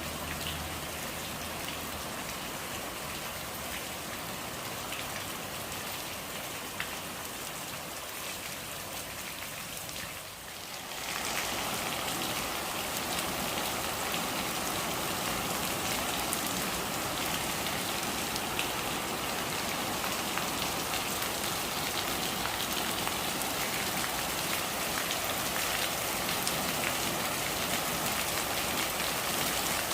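Steady rain falling, a dense even patter of drops on surfaces. About ten seconds in it dips briefly, then comes back a little louder and fuller.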